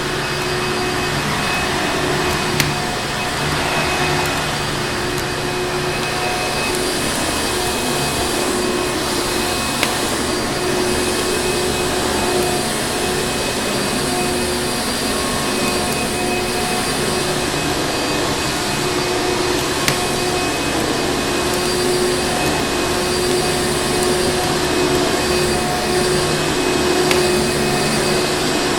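Vacuum cleaner motor running steadily, a continuous whooshing drone with a constant whine. A few sharp pops from a crackling wood fire sound over it.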